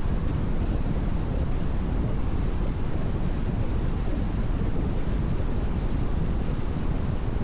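Steady road noise of a car at expressway speed on a rain-wet road: a low, even rumble with tyre hiss on the wet surface.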